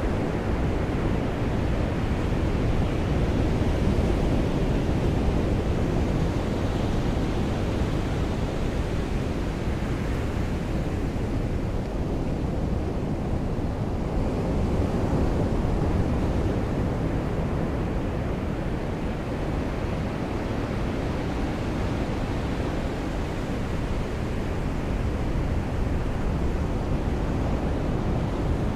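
Sea surf washing onto a beach with rain falling, a constant low rush that swells and eases gently, a little softer past the middle.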